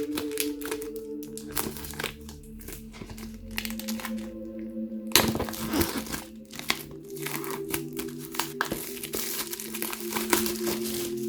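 Plastic packaging being crinkled and crackled by hands in irregular bursts, with a sharp crackle about five seconds in and denser crinkling near the end. Soft background music plays underneath.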